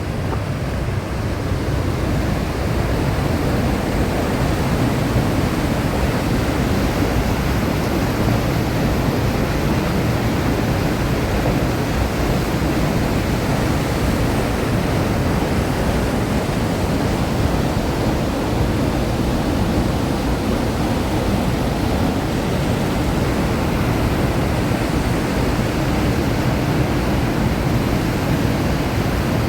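Waterfall: a steady rush of falling water, growing a little louder in the first couple of seconds.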